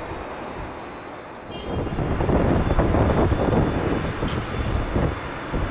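Airbus A320 jet engine noise with a thin steady high whine, overlaid from about two seconds in by loud, irregular wind buffeting on the microphone.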